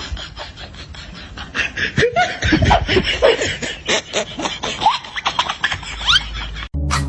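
A person laughing amid a run of rapid clicks and clatter. Music starts abruptly near the end.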